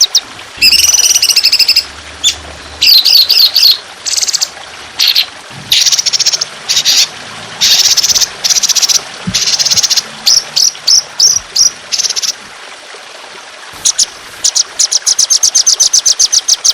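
Songbird singing a rough, fast 'trotolan' song: bursts of buzzy calls and quick trills, a short pause about twelve seconds in, then a rapid run of repeated notes, about eight a second, near the end. Trickling water hisses steadily underneath.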